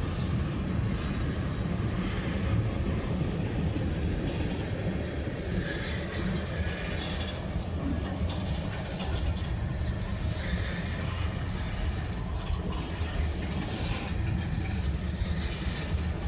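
Freight train cars rolling past on the track, a steady low rumble.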